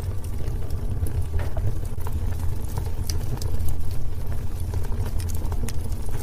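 Wood fire burning in a fireplace: a steady low rumble of the flames with many irregular sharp crackles and pops of the burning wood.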